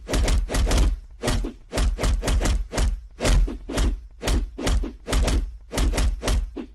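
A long run of thumps and knocks, two or three a second in uneven groups.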